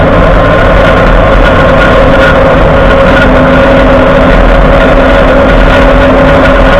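Road and drivetrain noise heard from under a moving Ford F-150's front end: a loud, steady rumble with a continuous whining, grinding tone that does not let up. The front axle shaft is spinning with the wheel even in 2WD, a sign of a failed IWE wheel-end hub, which the dealership thinks is a locked-up wheel hub.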